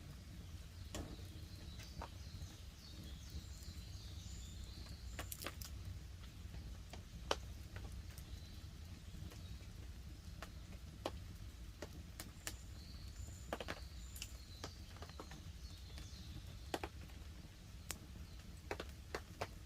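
Wood campfire crackling, with sharp irregular pops over a low steady hiss. Faint bird chirps sound in the background.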